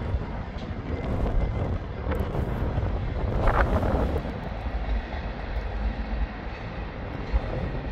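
Canadian Pacific diesel freight locomotive and its cars passing, heard as a steady low rumble. A brief louder noise rises over it about three and a half seconds in.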